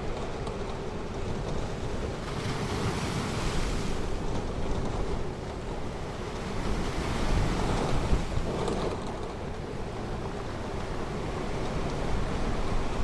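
Ocean surf washing onto a beach, with two waves swelling up a few seconds apart over a steady low wind rumble on the microphone.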